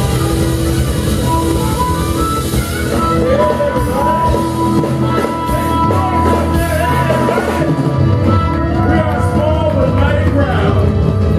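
Live blues band playing, with held notes and bending melodic lines over a steady bass.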